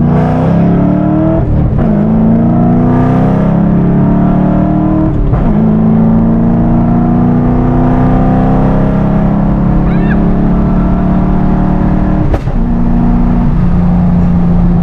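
Ford Mustang GT's V8 engine and exhaust heard from inside the cabin while driving: the note climbs and breaks briefly twice, about two and five seconds in, as it shifts up, then holds a steady cruising note with one short dip near the end.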